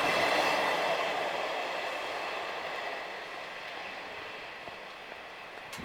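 British Rail Class 158 diesel multiple unit running past and away, its engine and wheel noise fading steadily as it recedes.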